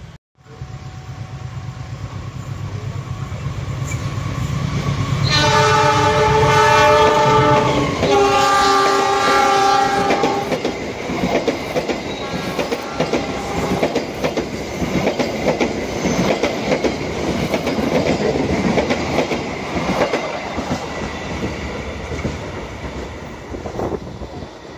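A CC 206 diesel-electric locomotive hauling a train approaches with its engine droning and builds in loudness. It sounds two long chord blasts on its horn, then passes at speed with wheels clattering rhythmically over the rail joints.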